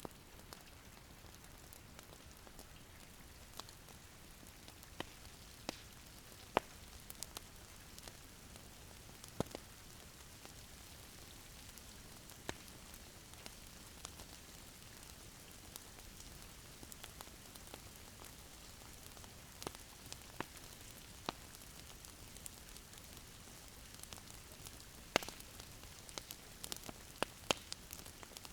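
Wood fire crackling in a fireplace: a steady soft hiss with irregular sharp pops and snaps, a few louder pops near the end.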